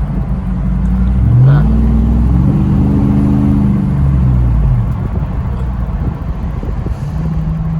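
A motor vehicle's engine revs up sharply about a second and a half in, holds at a higher pitch for a few seconds, then drops back to a lower steady run.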